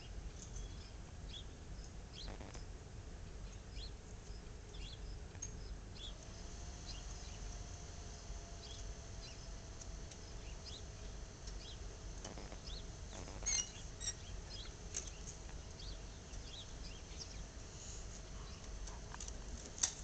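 Small birds chirping: scattered short high chirps over a steady low outdoor rumble. A faint steady hum comes in about six seconds in, and there is a sharp click near the end.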